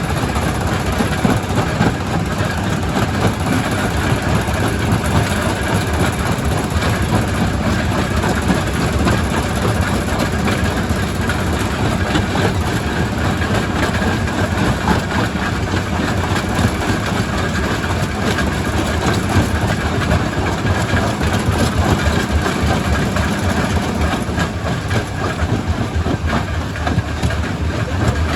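Quarry primary rock crusher running steadily: stone clattering and grinding through it with a dense stream of small knocks over a steady low drone.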